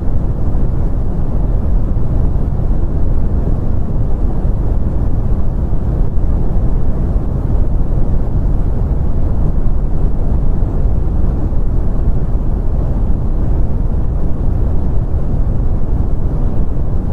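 Brown noise: a steady, deep rumbling hiss with its energy in the low end, unchanging throughout.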